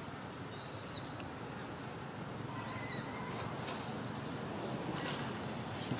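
Outdoor ambience: a steady low hiss with a few short, high chirps from birds scattered through it, each sliding downward in pitch.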